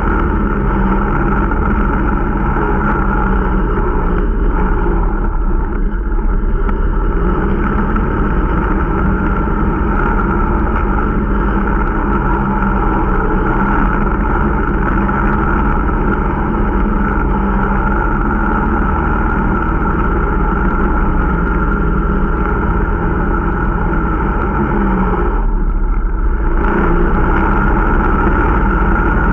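Small single-cylinder snowmobile engine of an Irbis Dingo T125 running under way on its running-in ride. Its note wavers slightly with throttle and briefly eases off about 26 seconds in before picking up again.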